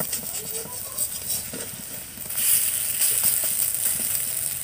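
Pumpkin-flower fritters sizzling in hot oil in an iron wok, with a steel spatula scraping and tapping against the pan. The sizzle grows louder about two seconds in.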